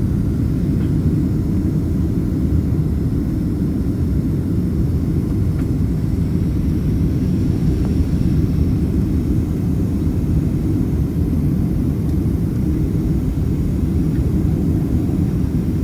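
Steady rumble of engines and airflow heard inside the cabin of a Boeing 767-300ER airliner descending toward landing, with a faint high whine in the middle.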